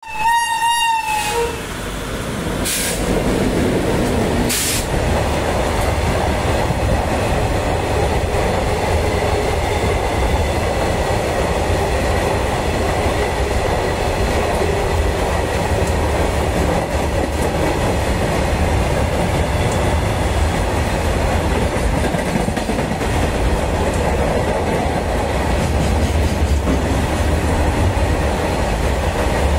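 Long freight train of open-top wagons passing close by. A brief locomotive horn blast sounds at the very start, two short hissing bursts follow a few seconds in, and then the wagon wheels rumble and clatter over the rails steadily.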